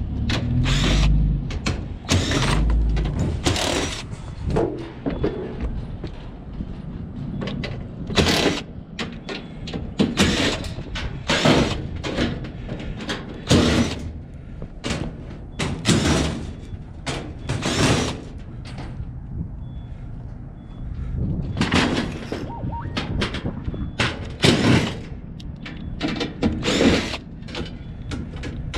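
Scrap metal being handled: a long, irregular run of clanks and thuds, roughly one every second or two, with two short lulls.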